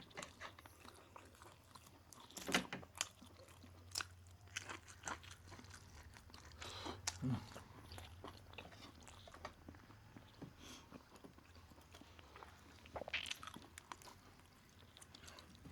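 A person eating roast chicken, chewing and biting with irregular crunches and mouth clicks, and a few louder bites spread through.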